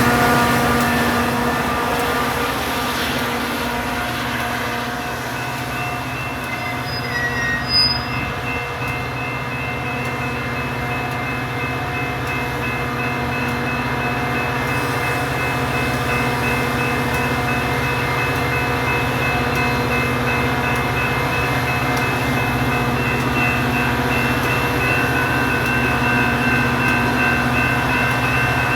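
Metra diesel commuter train running at the station, a steady engine drone with several high whining tones held throughout. A short sharp click about eight seconds in.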